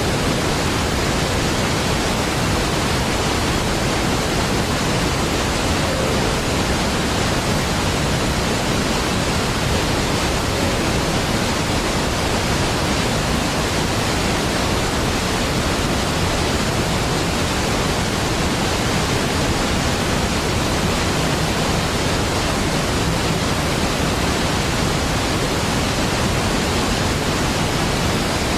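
Niagara Falls, a large waterfall: the steady, even rush of falling water with no breaks or changes.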